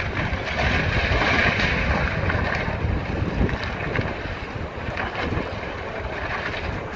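Floodwater of the swollen Yellowstone River rushing steadily, with wind buffeting the microphone.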